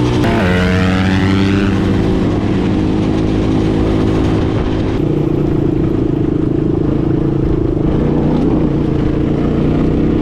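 Small off-road vehicle engine running, its pitch falling sharply just after the start, then holding fairly steady at a lower speed.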